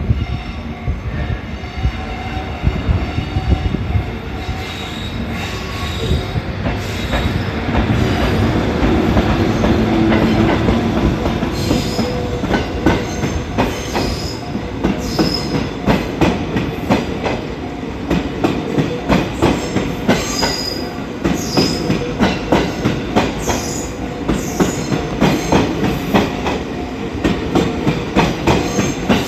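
EF81 electric locomotive hauling E231 series 800 commuter cars past, wheels clacking over rail joints in a steady rhythm with short high flange squeals.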